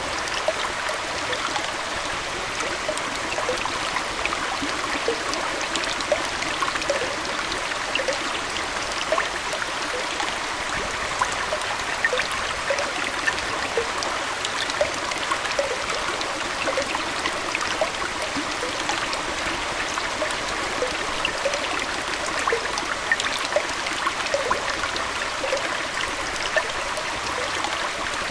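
Aquarium water trickling and splashing steadily, dotted with many small plinks of drops and bubbles.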